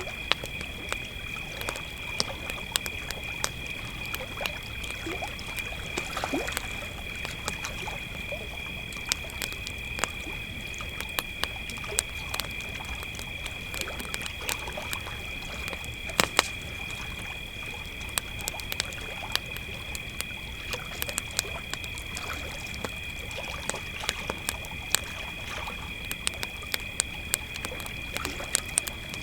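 Crickets trilling steadily on two high pitches, with a campfire crackling and popping throughout, one louder pop about sixteen seconds in.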